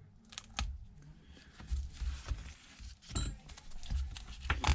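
Small clicks, taps and low handling knocks of hand tools working on a tablet screen on a workbench, a few sharp clicks scattered through.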